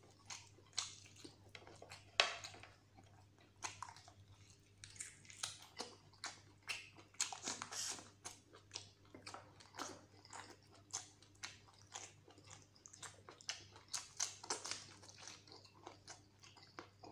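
A man chewing mouthfuls of curried mutton, with many irregular wet lip smacks and mouth clicks.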